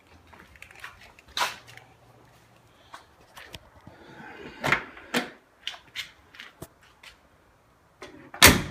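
Car door of a 1974 Alfa Romeo Spider being worked: several latch and handle clicks, then the door shutting with a loud thunk near the end.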